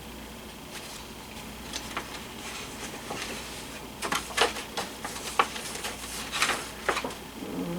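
Handling noise: a scattering of short clicks and taps over faint room hiss, thickest in the second half.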